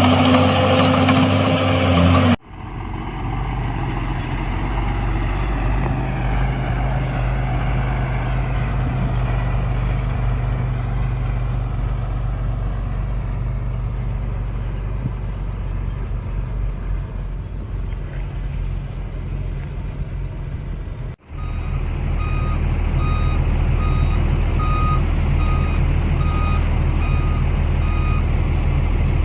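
Diesel engines of heavy earthmoving machinery running steadily, with two abrupt breaks. In the last part a reversing alarm beeps repeatedly, about once a second, as a machine backs up.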